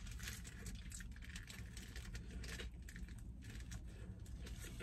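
Quiet chewing of a crispy fried chicken sandwich: a run of small, irregular crunches and mouth clicks over a steady low rumble inside a parked car.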